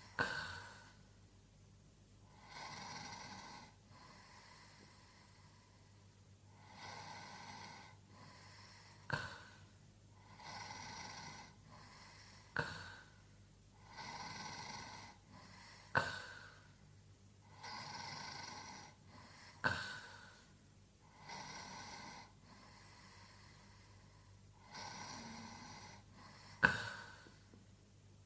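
A sleeper snoring: slow, regular breathing about every three and a half seconds, each breath a soft hiss, with a short sharp snort about a second before several of them, the loudest near the end.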